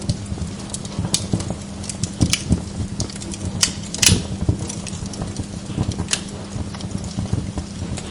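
Wood log fire crackling in a fireplace: irregular sharp pops and snaps, the loudest about four seconds in, over a steady low hum.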